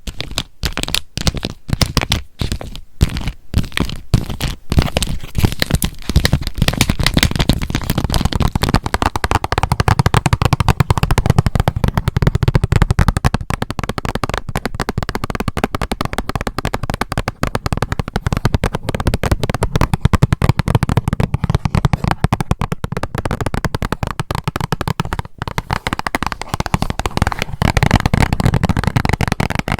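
Fingernail tapping and scratching ASMR triggers. Near the start there are separate crisp taps on a cat-paw squishy toy still sealed in its plastic packet. About a third of the way in, this changes to fast, dense tapping and scratching on a band-aid box.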